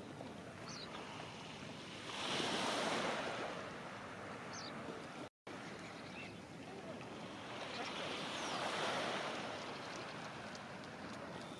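Sea waves washing onto the shore, a steady rush that swells twice as waves break, with some wind. A split-second gap of silence about halfway through.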